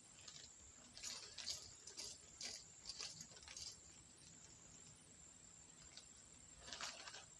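Faint handling noise of small building-kit pieces being sorted by hand: a scatter of light clicks and rustles, mostly in the first half, with another short cluster near the end.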